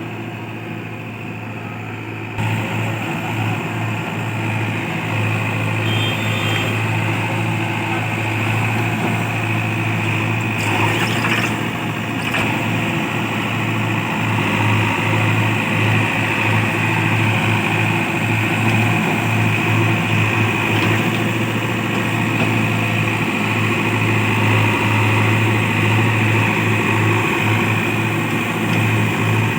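Heavy diesel engine of earthmoving machinery running steadily, with an uneven, pulsing low drone. It gets louder about two seconds in.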